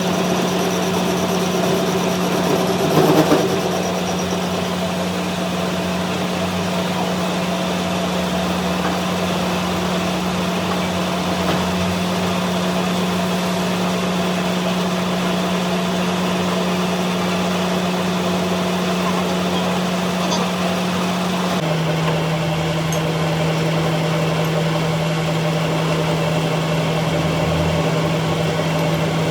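A machine running with a loud, steady hum, with a brief knock about three seconds in; near the end the hum steps slightly lower in pitch.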